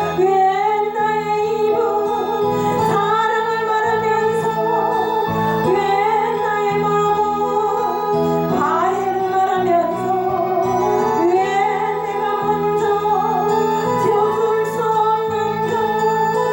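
A woman singing a slow Christian song, holding long notes with vibrato over a steady instrumental accompaniment.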